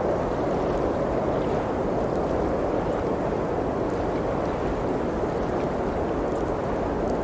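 Steady rushing blizzard wind, with faint scattered crackles of a wood fire.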